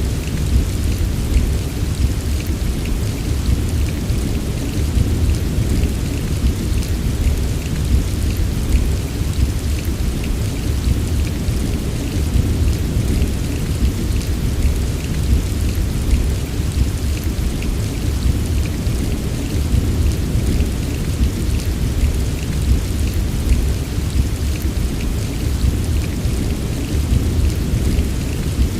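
Steady heavy rain with a dense patter of drops over a continuous deep, low rumble, with no single loud crash.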